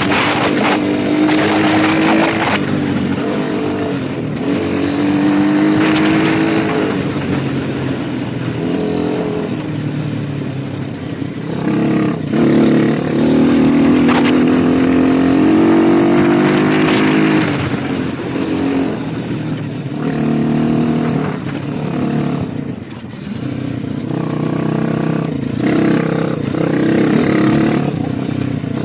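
Small motorcycle engines running under way, the pitch rising and falling over and over as the throttle is opened and closed.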